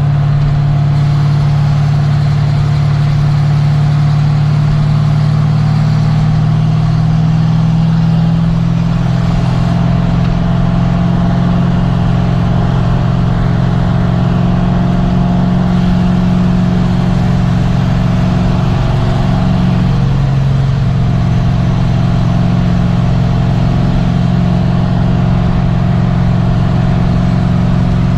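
Car engine running at a steady, fairly constant speed with road noise, its pitch shifting slightly a couple of times.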